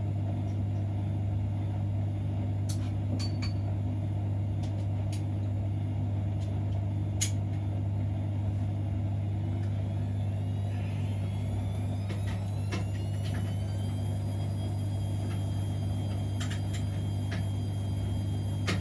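Siemens Extraklasse XLs 140 A washing machine running its wash cycle: a steady low hum with scattered light clicks, and a thin whine that rises about ten seconds in and then holds steady.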